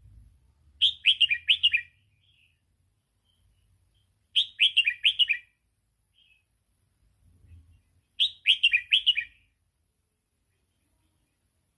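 Red-whiskered bulbul singing: a short phrase of four or five quick falling whistled notes, given three times about four seconds apart.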